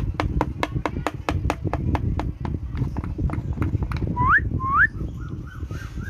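Rapid, even tapping, about five taps a second, stops after about four seconds; then an Indian ringneck parrot gives two rising whistles followed by a run of short chirps.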